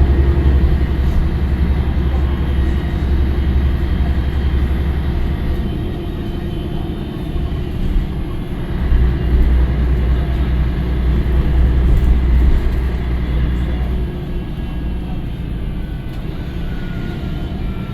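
Scania L113CRL bus's diesel engine and drivetrain running under way, a deep steady drone that is heaviest for the first five seconds and again from about eight to twelve seconds in, easing in between and after. Near the end a faint rising whine comes in as the bus picks up speed.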